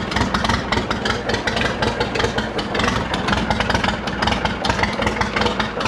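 1947 Case Model S tractor's four-cylinder engine turning over and firing, a fast uneven train of power strokes, on a carburettor whose stuck float is letting it flood.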